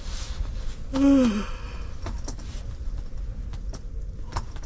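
A man sighs, with a short falling voiced hum about a second in, over a steady low rumble and a few scattered light ticks.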